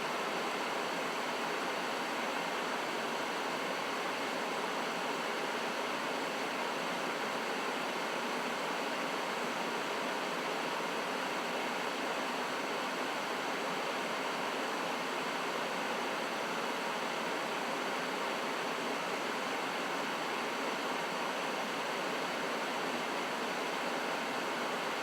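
Trane XB80 gas furnace running steadily: a constant, even rush of air with no change in level.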